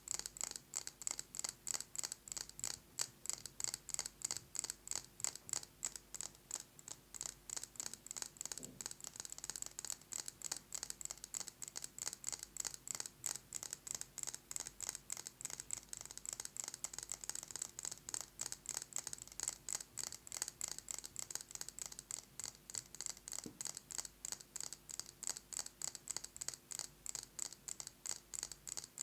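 Fast, continuous fingernail tapping on a glass candle jar: rapid, evenly paced clicks with no pauses.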